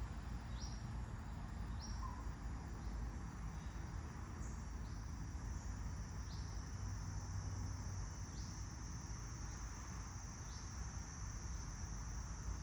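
Outdoor nature ambience: a steady high-pitched insect trill runs throughout, with short rising chirps repeated every second or two, over a low wind rumble.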